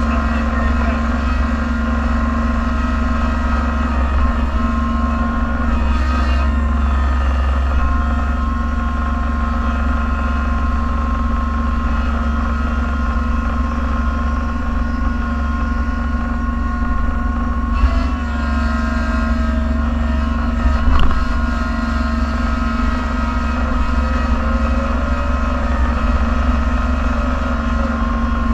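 A snowplow vehicle's engine running steadily, heard from inside the cab, with a couple of brief knocks in the second half.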